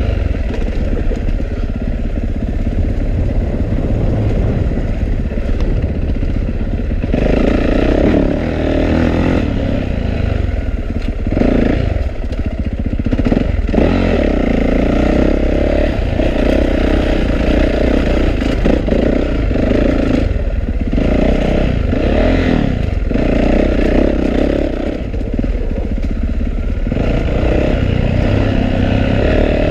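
2012 Yamaha YZ450F's 450 cc single-cylinder four-stroke engine running hard on a dirt trail. The throttle keeps opening and easing, and the engine gets louder about seven seconds in.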